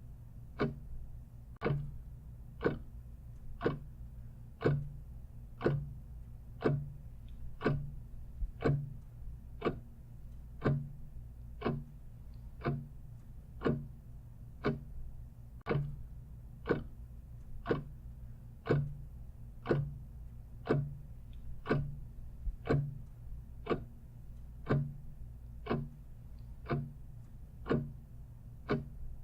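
Clock ticking steadily at about one tick a second, over a low steady hum.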